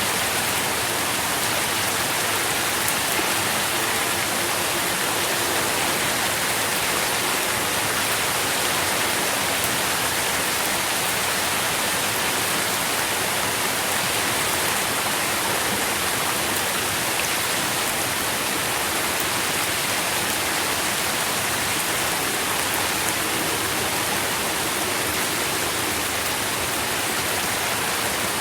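Steady, dense rainfall: an even hiss of many drops pattering without pause.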